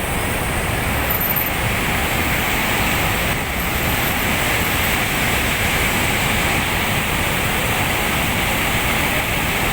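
Steady, unbroken rush of water from heavy monsoon rain or storm runoff, loud and even throughout.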